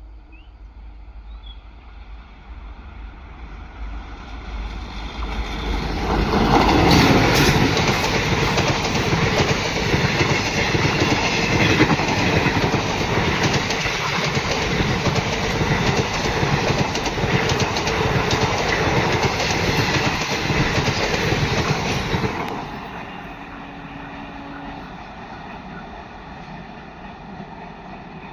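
Indian Railways electric-locomotive-hauled train passing close by, its wheels clattering over the rail joints. The sound builds over the first few seconds, stays loud for about sixteen seconds, then drops away suddenly as the last coach clears, leaving a low rumble.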